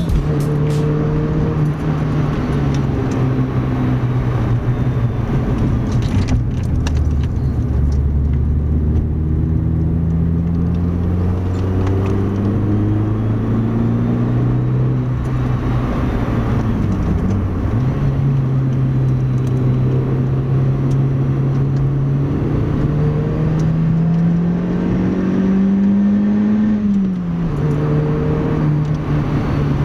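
Citroën C2 VTS's 1.6-litre 16-valve four-cylinder petrol engine (TU5JP4S) heard from inside the cabin while driving, its note climbing steadily under acceleration and falling suddenly twice, about halfway through and near the end, as at gear changes. Road and tyre noise runs underneath.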